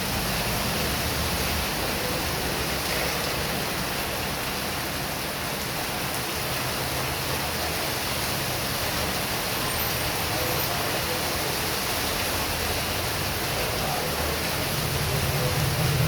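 Heavy rain falling steadily, an even hiss. Near the end a vehicle's low rumble comes in and grows louder as it approaches.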